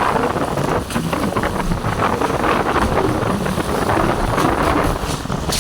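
Floodwater rushing steadily, with wind buffeting the microphone.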